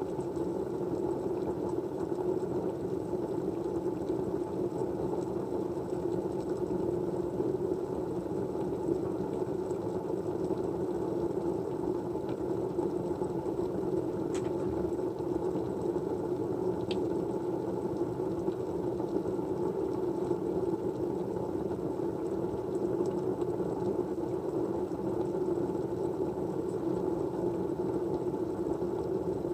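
Steady white noise: an even, low hiss-like hum that does not change, with a few faint ticks in the middle.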